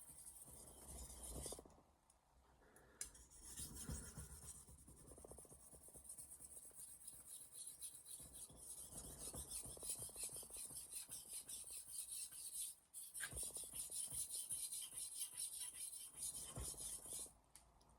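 A 210 mm Misono Japanese kitchen knife blade scraping on a whetstone in rapid back-and-forth sharpening strokes, with short pauses about two seconds in, around thirteen seconds and just before the end.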